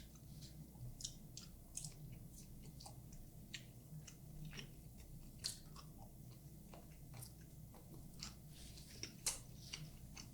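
Close-miked mouth sounds of a person chewing and eating noodles: soft, irregular wet clicks and smacks over a faint steady hum.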